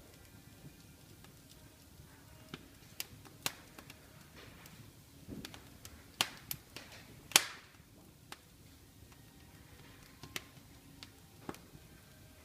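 Wood fire in a fireplace crackling: scattered sharp pops at irregular intervals, the loudest about seven seconds in, over a low steady hiss.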